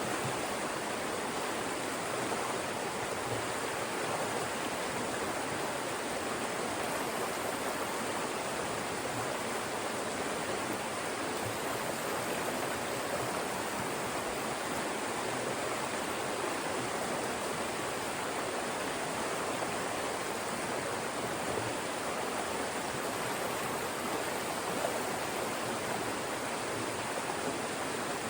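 Fast-moving mountain stream rushing steadily through narrow channels between rocks, a continuous even rush of water.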